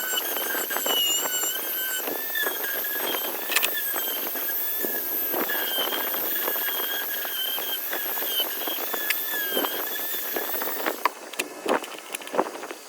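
A small power tool running with a steady high-pitched squeal that wavers slightly in pitch, cutting off about eleven seconds in, followed by a few light clicks.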